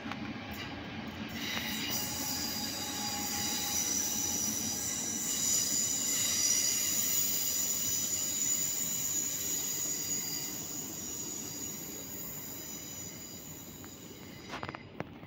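Electric passenger train moving over station track with its wheels squealing, a high-pitched sound of several tones at once over the rumble of the running gear. It swells to a peak midway, then fades as the train draws away, with a couple of sharp clicks near the end.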